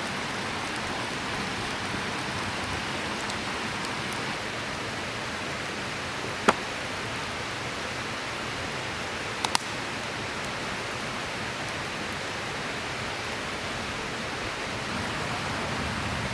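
Steady rushing of a river flowing past, with a sharp single snap about six and a half seconds in and a quick double snap around nine and a half seconds.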